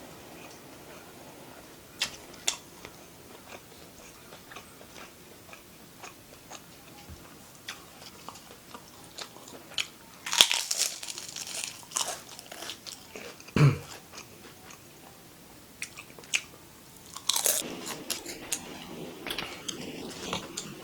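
A person eating close to the microphone: chewing and crunching spicy beef fried rice, with scattered sharp clicks and louder spells of crunching about ten seconds in and again near seventeen seconds.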